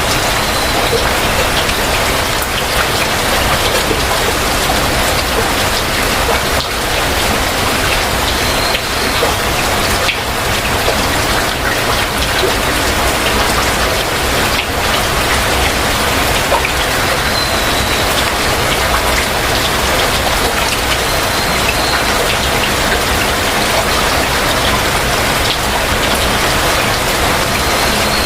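Heavy rain falling steadily, a dense hiss with many individual drops striking a surface. A faint short high note recurs every several seconds.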